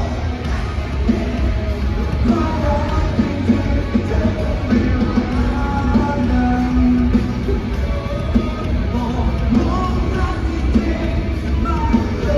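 Live rock band playing a song with a singer over it, with a heavy bass.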